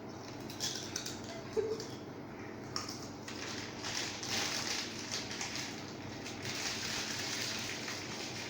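Plastic chips packet rustling and crinkling in irregular bursts.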